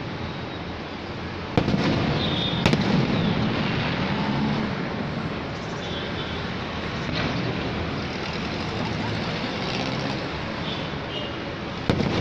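Aerial fireworks shells bursting in the sky: several sharp bangs, the first about a second and a half in, another about a second later, and a last one near the end. A steady rushing noise runs underneath.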